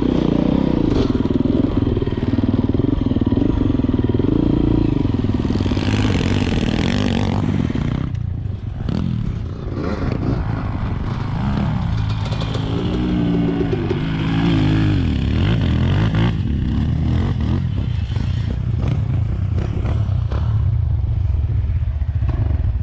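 Enduro motorcycle engine running as the bike is ridden, the throttle opened and closed so the revs keep rising and falling, with a brief easing off about eight seconds in.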